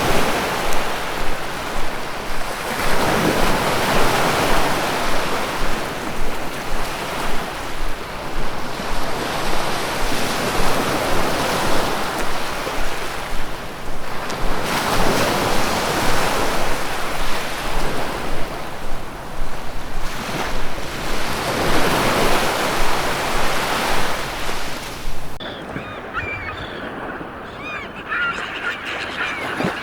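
Ocean surf, waves breaking and washing in, swelling and ebbing every three to four seconds. About 25 seconds in the surf cuts off abruptly to a quieter scene of many short bird calls.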